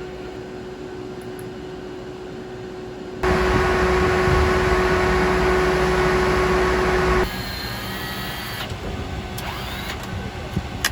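Steady drone of aircraft engines with a steady hum. It jumps abruptly much louder about three seconds in and drops back about seven seconds in.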